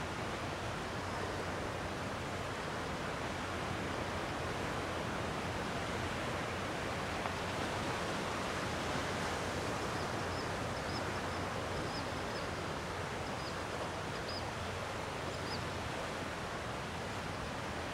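Gentle sea waves washing on the shore: a steady, even rush of surf.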